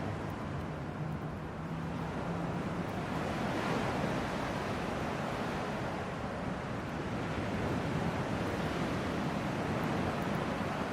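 Hardwood campfire burning in a small fire stand: a steady rushing noise that swells and eases, with faint crackles here and there.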